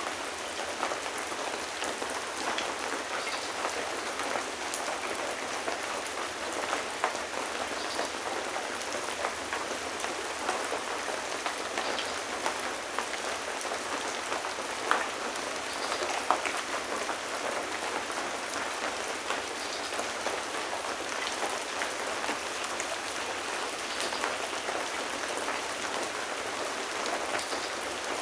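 Steady rain falling on a surface, an even hiss with scattered louder individual drop splashes, the most distinct about fifteen and sixteen seconds in.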